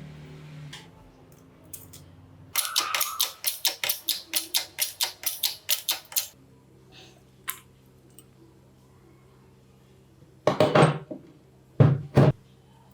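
Metal tool work on drill parts: a quick run of sharp clicks, about four a second, lasting some four seconds, then a few loud knocks near the end.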